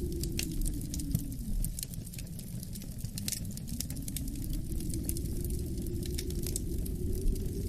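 Wood fire crackling with frequent sharp pops and snaps, over a low howl of wind that drops away about a second and a half in and then slowly builds again.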